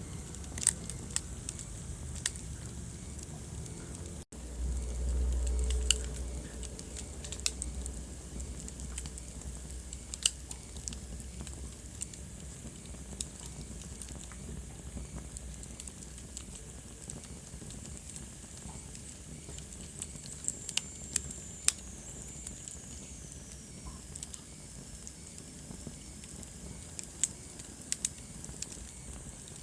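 Wood fire burning in a fireplace: a steady hiss with sharp crackles and pops at irregular intervals. About four seconds in the sound drops out for an instant and a low rumble follows for about two seconds; a faint high whistle slowly falls in pitch a little past the middle.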